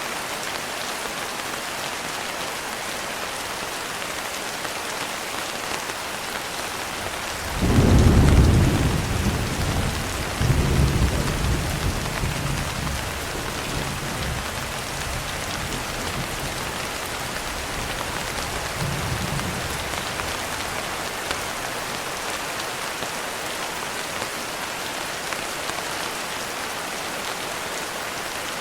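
Steady rain falling on a window, with a roll of thunder breaking in about a quarter of the way through: a sudden deep rumble, a second surge a few seconds later, then a long fade under the rain.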